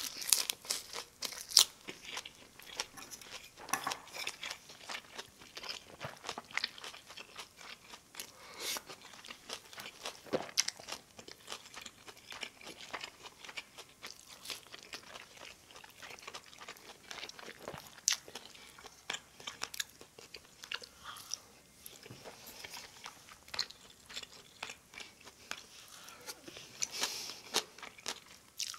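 Close-up chewing and crunching of food by one person eating, with frequent sharp clicks of metal chopsticks against plates and bowls.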